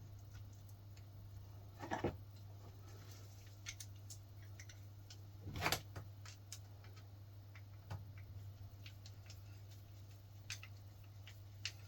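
Small metal clicks and taps of rocker-arm parts being handled and elephant-foot swivel valve adjusters being fitted into the rocker arms, with two louder knocks about two and six seconds in, over a steady low hum.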